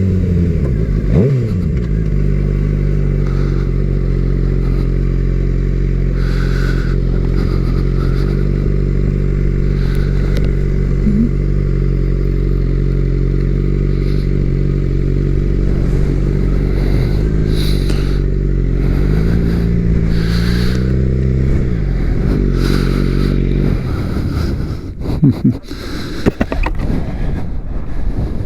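Suzuki GSX-R750's inline-four engine running steadily at cruising speed, heard from the rider's seat, with a brief dip in pitch about a second in. Near the end the engine note falls away as the throttle is rolled off, and wind buffets the microphone.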